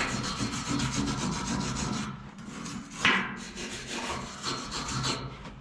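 Steady, fast scratching of a wire brush scrubbing slag off a stick weld on steel, with one sharper scrape about three seconds in. It stops shortly before the end.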